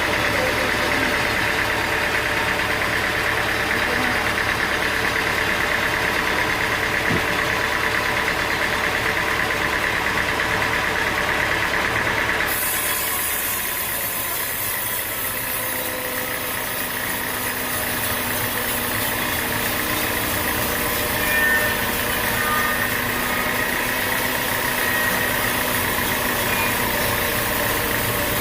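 Sawmill engine running steadily at a constant speed; the sound changes abruptly about halfway through.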